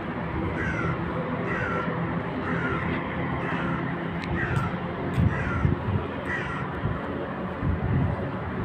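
A bird calling over and over, a short falling call about once a second, over a steady low hum. Some low rumbling near the end.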